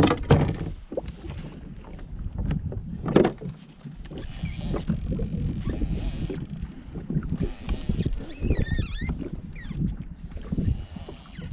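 Wind rumbling on the microphone aboard a fishing kayak at sea, with scattered knocks against the hull, two sharper ones at the start and about three seconds in.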